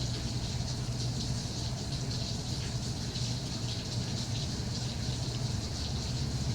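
Steady rain falling: an even hiss, flecked with many small drop hits, over a steady low hum.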